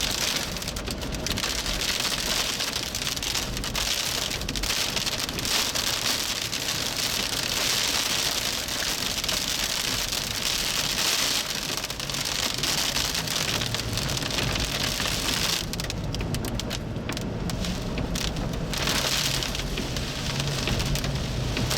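Heavy rain pelting the storm chasers' vehicle during a severe thunderstorm, heard from inside the cabin as a dense, steady hiss. A low steady hum comes in about two-thirds of the way through.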